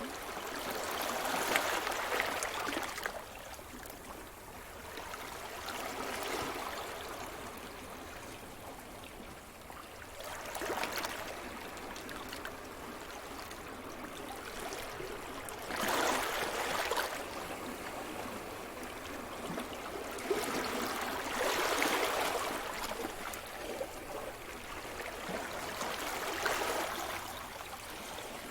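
Sea surf: waves breaking and washing up the shore in six surges about five seconds apart, with a steady hiss of water between them.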